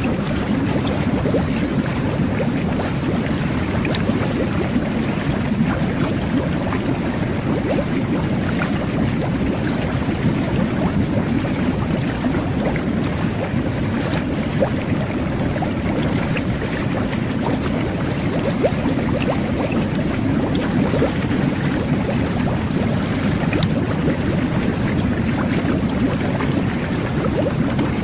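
Jet bath (whirlpool bubble bath) running: water jets churning and bubbling steadily in the tub, with a low rushing sound and small crackling pops of bursting bubbles.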